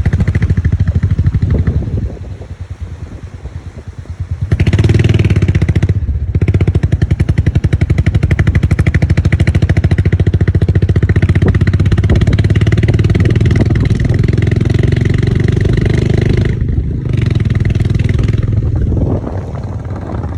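Motorcycle engine running during a ride, with a rapid steady pulsing. About two seconds in it drops quieter, comes back louder about four and a half seconds in, dips briefly twice, and eases off again near the end.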